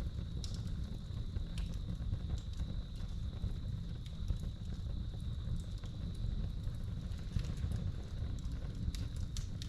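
Wood fire burning in a fireplace, crackling with scattered sharp pops over a steady low rumble, while a cricket trills steadily at a high pitch.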